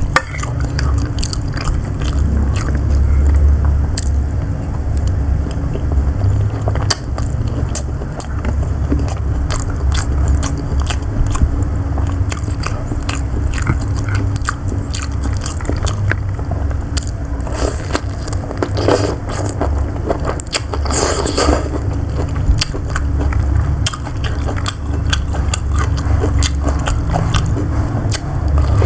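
Close-miked chewing of siomay (steamed fish dumplings), with continuous low chewing thumps and frequent wet mouth clicks. A brief louder scrape comes about two-thirds of the way through.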